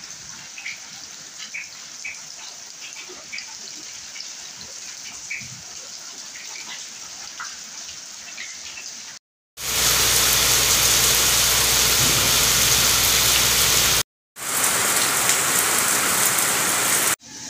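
Rain falling: at first a light, steady hiss with scattered faint high ticks, then, after a sudden cut about nine seconds in, a much louder, heavier downpour, broken once by a brief gap about fourteen seconds in.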